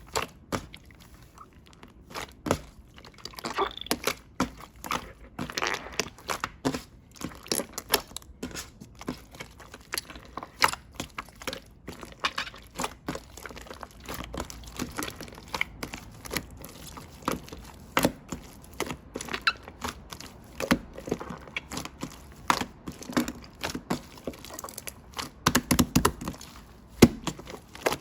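Slime being pressed and squished by hand, giving irregular sticky pops and crackles, several a second.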